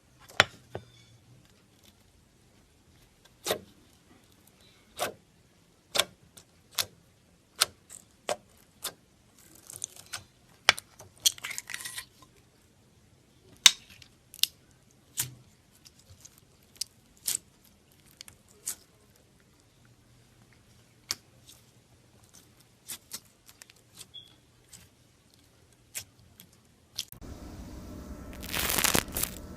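Slime being pressed and poked by hand, giving sharp pops of trapped air about once a second. About two seconds before the end, a dense crackling begins as the slime is squeezed harder.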